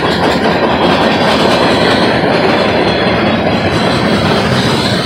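Freight train cars rolling past close by: a loud, steady rumble of steel wheels running on the rails.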